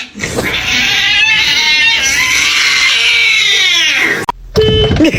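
A cat yowling: one long, loud, drawn-out call of about four seconds that rises and then falls in pitch. It breaks off, and a different short sound begins just before the end.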